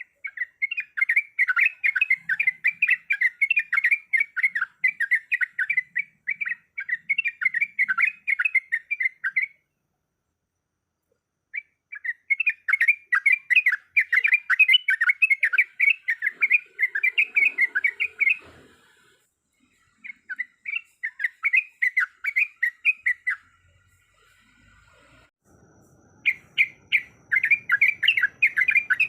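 Yellow-vented bulbul (trucuk) giving long runs of fast, loud chattering notes, broken by short pauses. It is the excited song used as a lure to set a caged bulbul singing.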